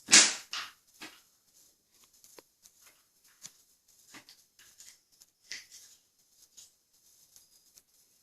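Wooden doll clattering as a cat bats it about: a loud clatter of knocks in the first second, then scattered light taps and knocks.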